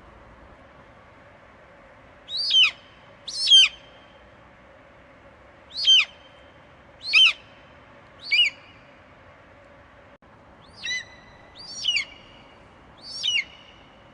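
Eagle screeching: a series of eight short, high calls, each sliding down in pitch, coming at irregular intervals over a faint steady hum.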